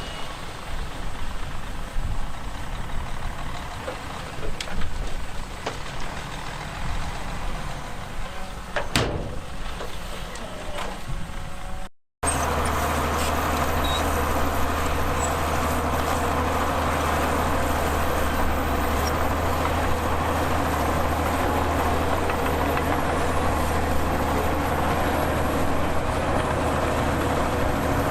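Heavy diesel earthmoving machinery working. For about twelve seconds there is uneven engine noise with scattered knocks, then a brief dropout, then a steady low diesel drone.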